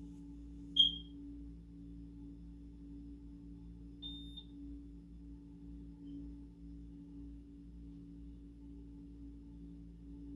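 Soft steady background music of sustained low tones, with a short sharp high-pitched electronic beep about a second in and a fainter, slightly longer beep about four seconds in.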